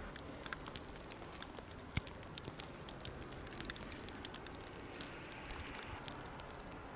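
Wind-blown snow and ice pellets ticking irregularly against the microphone over a steady hiss of the storm, with one sharper click about two seconds in.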